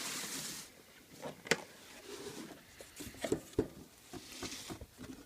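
Cardboard box being opened and handled: a short rustling slide at the start, then scattered light knocks and taps.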